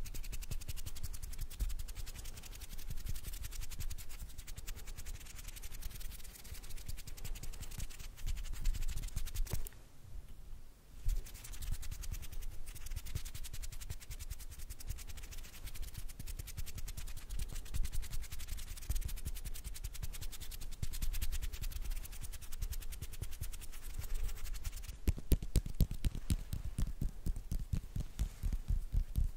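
Hands rubbing and scratching close to the microphone: a dense, continuous run of quick dry friction sounds. It dips briefly about ten seconds in and turns into sharper, faster clicking near the end.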